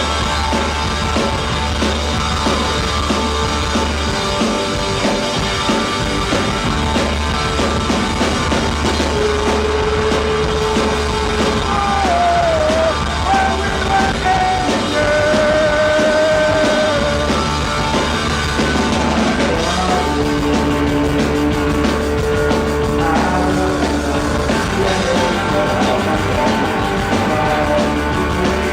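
Rock band playing live: drum kit, bass and guitars, with long held melody notes that bend in pitch through the middle.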